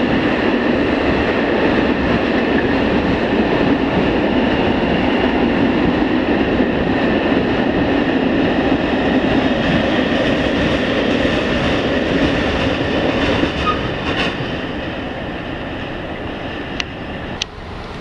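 A freight train of loaded open wagons rolls past with a steady rumble of wheels on rail and a few faint, steady high tones. It fades away over the last few seconds as the end of the train goes by, with a couple of sharp clicks near the end.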